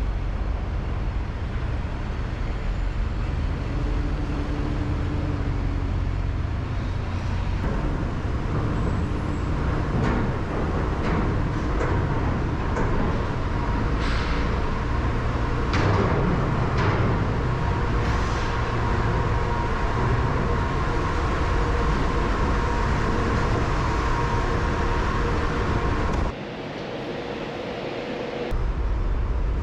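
Pickup truck with a camper rolling slowly in a low gear, heard from inside the cab: a steady engine and road rumble, with a few knocks and rattles about halfway through and a brief drop in level near the end.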